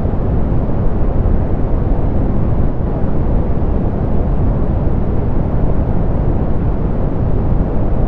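Steady soft pink noise: an even, unchanging hiss weighted toward the low end, with the treble rolled off.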